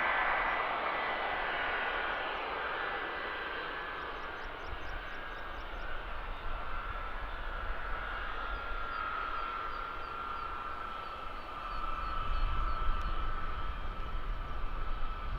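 Jet roar from a Boeing C-17 Globemaster III's four turbofan engines, with a high whine that slowly drops in pitch as the sound eases off over the first few seconds.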